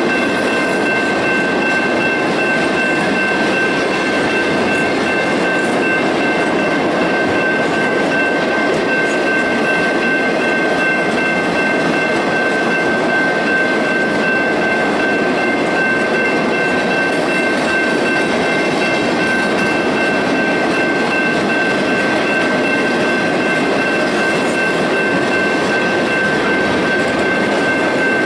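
Ore train cars rolling steadily past on the rails, with a steady high-pitched whine held over the rumble.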